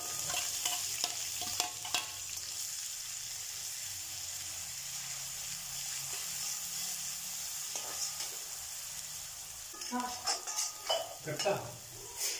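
Grated onion and garlic sizzling steadily as they fry in hot oil in a metal kadhai. A metal perforated spoon scrapes and clinks against the pan during stirring, a few times near the start and more busily near the end.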